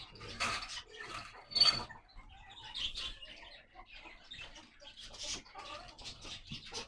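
Faint, scattered bird chirps with light rustling, including one short high chirp about a second and a half in.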